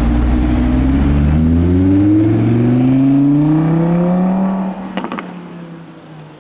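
Audi R8 V10 accelerating hard, the engine's pitch climbing steadily for about four and a half seconds. It then lifts off with a few sharp exhaust crackles about five seconds in, and the sound fades as the car pulls away.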